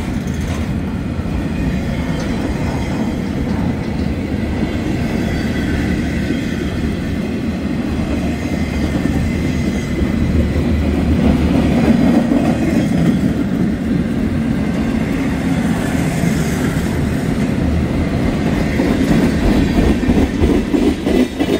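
Freight train cars rolling past with steady wheel-on-rail rumble and clickety-clack. Near the end a regular pounding beat sets in: a tank car wheel with a flat spot in it.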